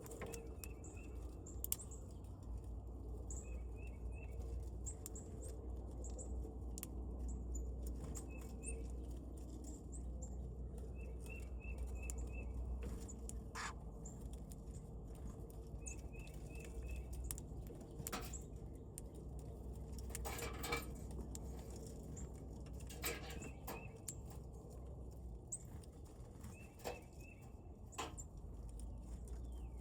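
Wild birds at a feeder: short runs of quick high chirps repeating every few seconds, with scattered sharp taps and clicks, over a steady low rumble.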